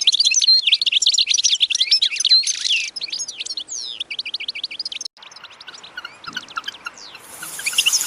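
Many small birds chirping rapidly in a dense, overlapping chatter. About five seconds in it drops sharply to fainter chirping, then swells back up near the end.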